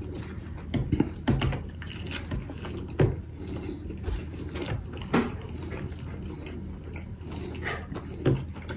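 Close-up eating sounds: wet mouth smacks and chewing of barbecue ribs being gnawed off the bone, a scatter of short irregular smacks and clicks over a low steady hum.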